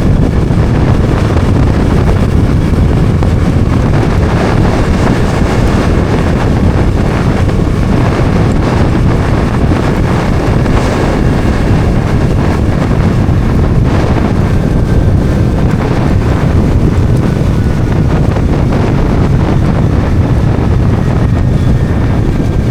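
Bajaj Dominar 400's single-cylinder engine running at a steady cruise under heavy wind noise on the microphone, its faint steady hum under the rush of air.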